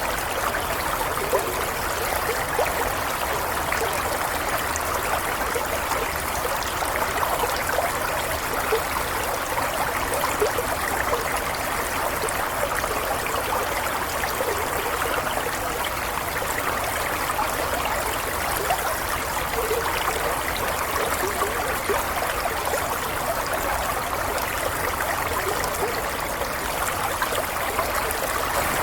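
Water of a small stream running steadily, burbling and trickling.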